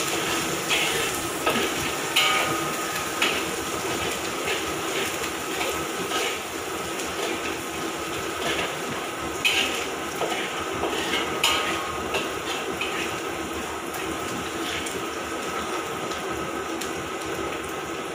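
Shallots, anchovies and curry leaves frying in oil in a wok, sizzling steadily, while a spatula stirs and scrapes against the wok about once a second.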